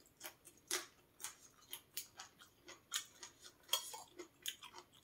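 Chewing a raw yardlong bean: a quick, irregular run of faint, crisp crunches, a few a second.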